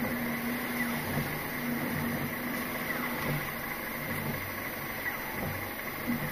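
Diesel engine of an articulated lorry's tractor unit running steadily, heard from inside the cab.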